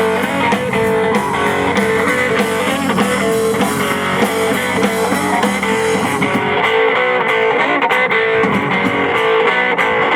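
Live blues band playing an instrumental stretch led by guitar, with no vocals. The bright high-end wash drops away about six seconds in.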